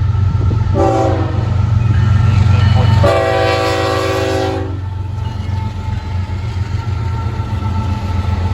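Freight locomotive horn sounding a short blast about a second in and a longer blast around three seconds in, over the steady low rumble of the lead diesel locomotives.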